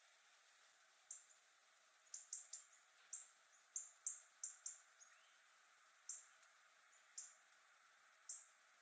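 A small bird giving short, high-pitched chirps, about a dozen at irregular spacing, starting about a second in over a faint steady hiss.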